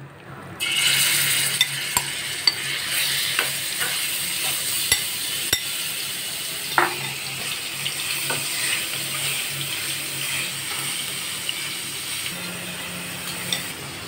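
Marinated chicken pieces dropped into hot oil in a frying pan: a sizzle starts suddenly about half a second in and carries on, slowly easing, as they fry. Scattered clicks and scrapes of a spatula against the pan come through the sizzle as the chicken is stirred.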